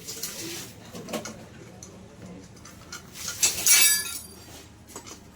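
Metal tools and engine parts clinking during motorcycle engine assembly, with one louder ringing metallic clatter about three and a half seconds in.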